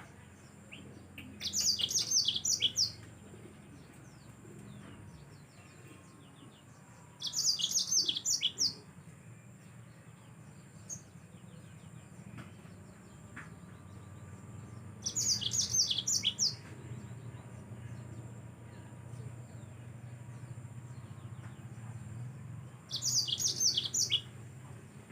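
Yellow-fronted canary (Mozambique) singing four short bursts of rapid, high twittering song, each about a second and a half long and several seconds apart, over a faint low hum.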